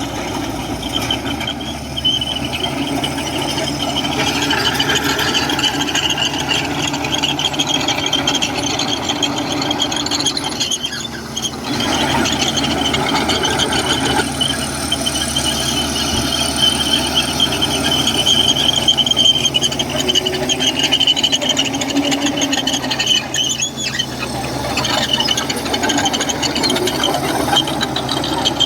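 Komatsu crawler bulldozer working: its diesel engine runs steadily while its steel tracks squeal continuously in a high pitch, easing briefly twice.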